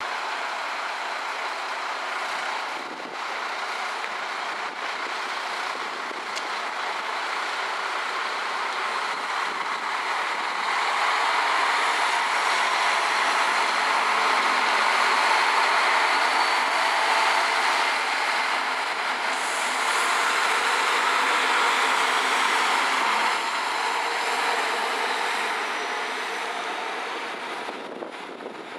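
Two coupled Alstom Coradia LINT diesel multiple units pulling out of a station: diesel engines under power and wheels rolling on the rails. The sound builds as the cars pass, is loudest in the middle and fades away near the end.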